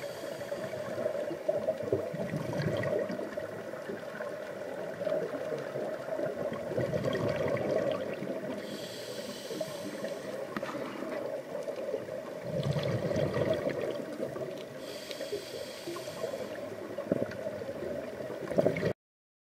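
Steady water noise with two brief hissing rushes, one about nine seconds in and one about fifteen seconds in; it cuts off suddenly shortly before the end.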